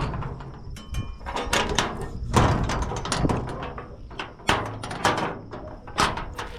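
A gate being closed and secured: a string of separate knocks and clanks, about eight over a few seconds, with rattling between them.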